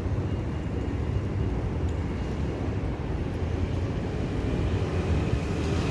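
Steady low rumble of city background noise, vehicle-like, with no distinct events.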